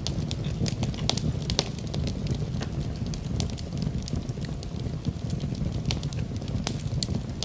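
Wood fire crackling in a fireplace: many irregular sharp pops and snaps over a steady low rushing of the flames.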